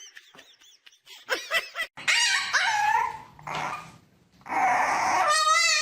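A dog vocalising in several growly barks and whines, starting about a second in, with a wavering, warbling cry near the end.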